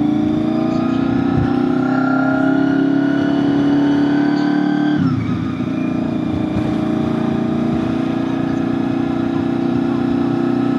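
2001 Honda VFR800FI's V4 engine under way, its pitch slowly climbing for about five seconds, then dropping sharply before it settles into steady running.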